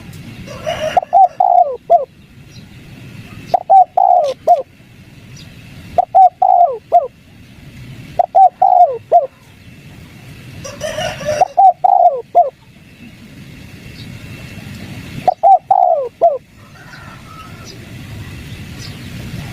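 Spotted dove cooing: short phrases of three or four quick coo notes, repeated about every two to three seconds, in the 'kuk 3' call style used to lure wild doves.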